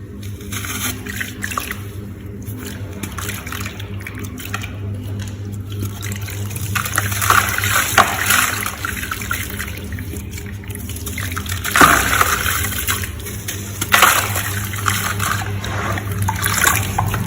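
Gritty sand crumbling into water: a continuous crackling, fizzing sound that grows busier partway through, with three sharper splashes or plops spread across it.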